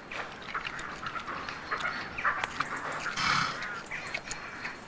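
A woodland animal foraging for fallen acorns: scattered rustles and crunches in dry leaf litter, with short snuffling sounds, the loudest about three seconds in.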